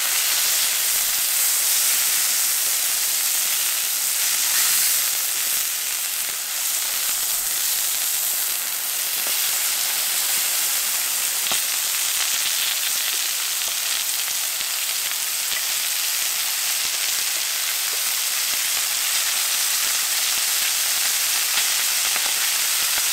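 Pork, peppers, sweet corn and mushroom frying in oil on a hot cast-iron griddle: a steady sizzling hiss with a few faint crackles.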